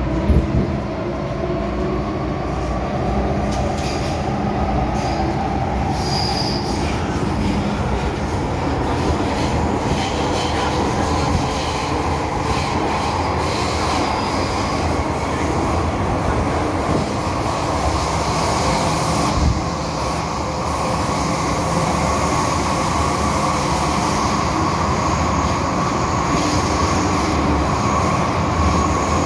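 MTR M-Train electric multiple unit running under power: the traction motors whine in a rising pitch as the train gathers speed, then hold a steady whine, over constant wheel and rail rumble. Brief knocks come near the start and again about two-thirds of the way through.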